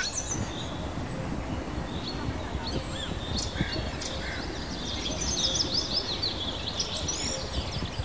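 Small birds chirping and twittering over a steady low background rumble, with a quick run of rapid chirps about five to seven seconds in.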